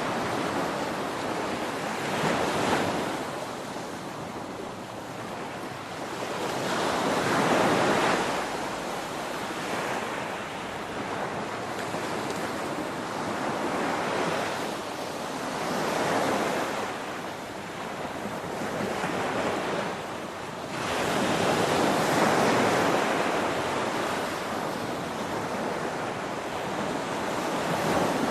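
Ocean surf: waves crashing one after another, a rushing wash that swells and ebbs roughly every six seconds.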